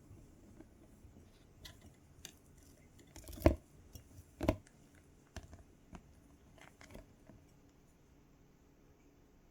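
Quaker parrot biting and crunching carrot: scattered small crisp clicks, with two louder crunches about three and a half and four and a half seconds in.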